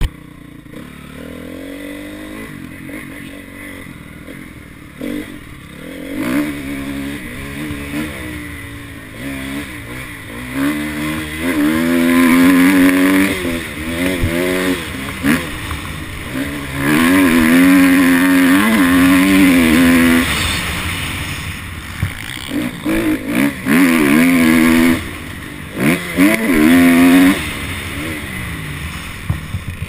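Honda CRF250 dirt bike's four-stroke single-cylinder engine being ridden hard, its pitch climbing and falling as the throttle is opened and chopped. Quieter for the first few seconds, then repeated loud full-throttle pulls with short throttle cuts between them.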